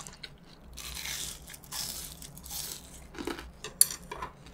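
Crunching of crispy fried pork cutlet breading being chewed close to the microphone, in three noisy bursts, then a sharp click near the end.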